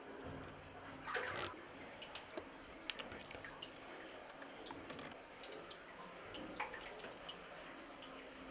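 Spring water trickling faintly in a rocky cave, with scattered short drips and clicks.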